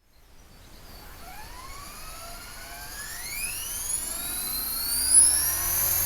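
Electric RC helicopter (HK-450 clone of a T-Rex 450) spooling up: the brushless motor and gear whine rises steadily in pitch and grows louder as the rotor head comes up to speed, levelling off near the end.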